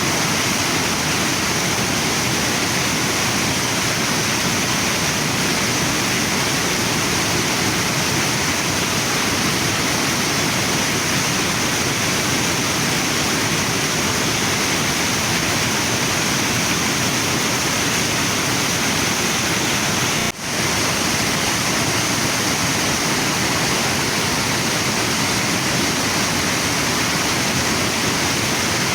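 Waterfall and river water rushing in a steady, even roar, with one momentary dropout about twenty seconds in.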